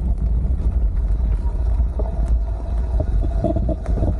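Wind buffeting a body-worn camera's microphone during a bicycle ride: a steady low rumble, with a few faint taps in the second half.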